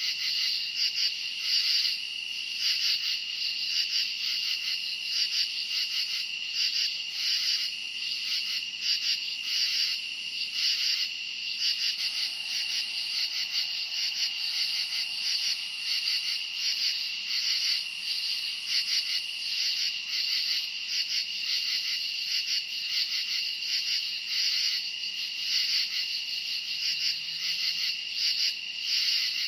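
Night chorus of crickets: dense, high-pitched chirping in rapid overlapping pulses, steady throughout.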